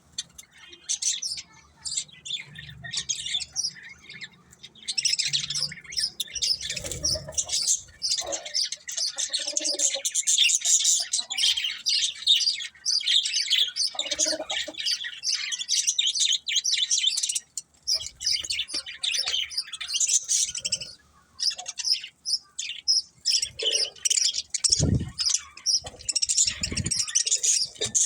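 Budgerigars chirping and warbling in quick, busy chatter, with a few short low thumps near the end.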